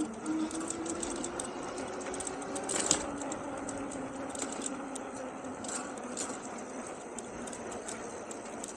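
Electric hub motor of an Engwe Engine Pro e-bike whining under way, its pitch sinking slowly over the first few seconds and then holding steady. Scattered light clicks and ticks run through it.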